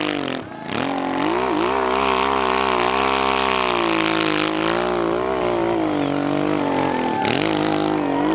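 Hill-climb motorcycle engine revving up and down as the rider works the throttle on a slow, careful climb. The engine note wavers constantly, dropping off briefly about half a second in and again near the end.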